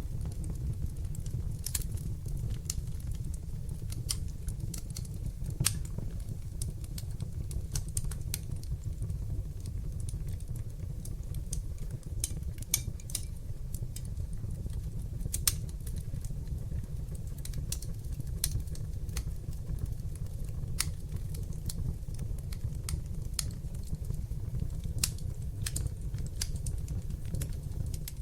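Wood fire burning in a fireplace: a steady low rumble of flames under sharp crackles and pops at irregular intervals, a few noticeably louder than the rest.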